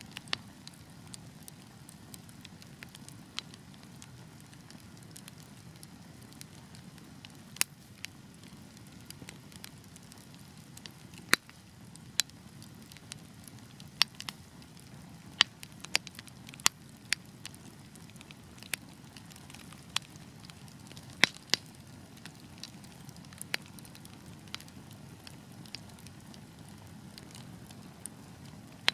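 Wood fire burning in a fireplace: a steady low rush of flame with irregular crackles and a few sharp, louder pops.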